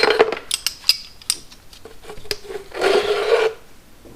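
Metal hand tools clicking and clinking as they are handled in a small toolbox, then a short scraping rasp of metal sliding against metal.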